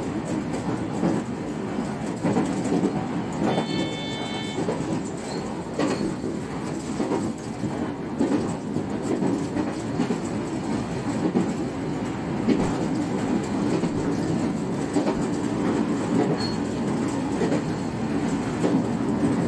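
JR West 125-series electric train running along the line: a steady rolling rumble with wheels clattering over rail joints. A brief high tone sounds for about a second, about four seconds in.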